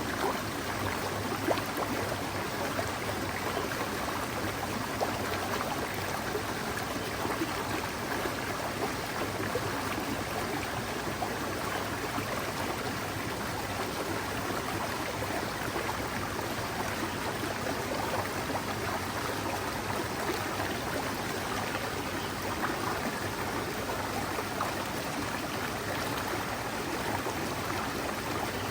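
Mountain forest stream flowing steadily, an even rush of running water.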